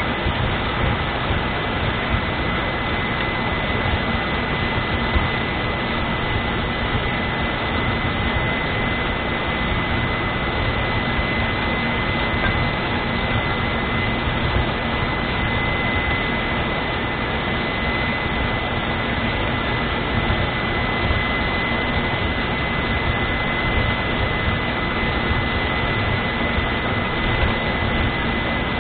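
Belarus MTZ-892 tractor's diesel engine running steadily, with a constant high whine over the engine noise.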